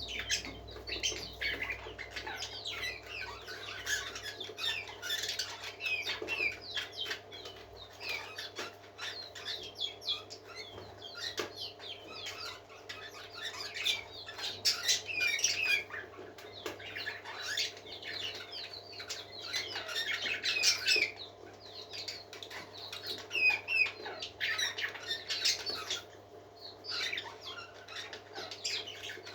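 Several parakeets chattering and warbling together in a steady stream of fast, high chirps, with a few sharp clicks mixed in.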